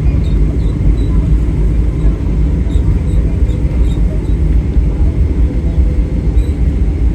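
Steady low rumble inside a Boeing 777-300's cabin as it taxis after landing, its Rolls-Royce engines running at low power, with a faint steady hum and a few light clicks.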